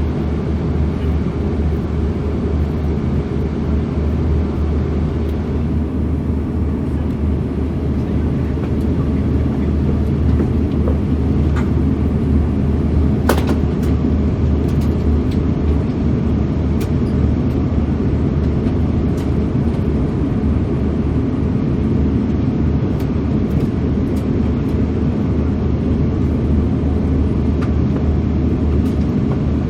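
Steady low rumble of an Airbus A340-600 in flight, its engines and airflow heard from inside the passenger cabin, with a sharp click about 13 seconds in.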